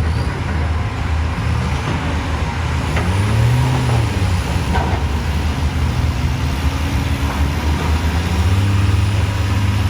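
Tata heavy-duty tipper truck's diesel engine running under load, revving up and back down about three and a half seconds in, then holding a steady, slightly louder note near the end.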